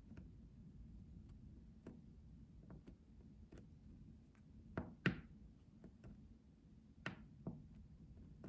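Soft scattered taps and clicks over a quiet hiss, with a few louder knocks: two close together about five seconds in and two more around seven seconds in.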